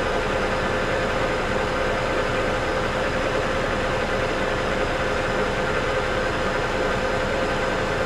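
South Bend 14½ lathe running steadily, giving an even mechanical noise with a constant tone.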